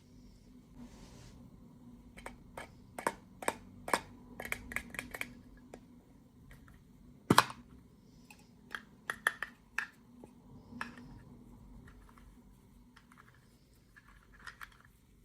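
Irregular small clicks and taps of hands handling plastic packaging and miniature toy pieces, in quick runs, with one louder knock about seven seconds in.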